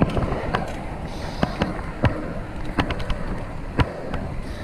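Fixed-gear bicycle ride: a steady rumble of tyres on pavement, with wind on the chest-mounted microphone and irregular sharp clicks and knocks about once or twice a second.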